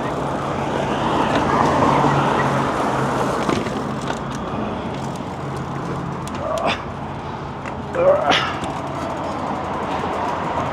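Outdoor street and wind noise with a steady low hum for the first half, and two short rising squeals about six and a half and eight seconds in.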